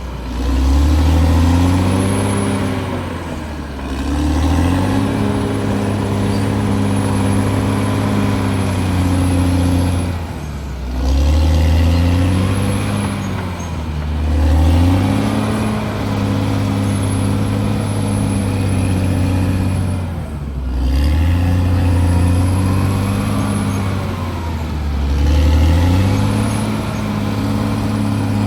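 CAT D6R bulldozer's diesel engine running hard under load, its pitch sagging and recovering several times as the blade digs in and the load comes off, with a faint high whine that rises and falls with it.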